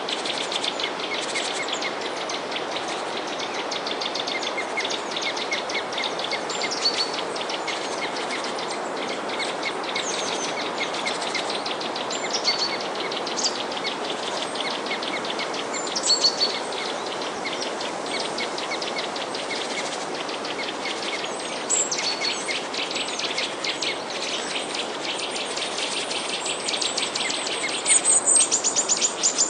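Many small birds chirping and twittering over a steady background hiss, with a run of louder, rapid high chirps near the end.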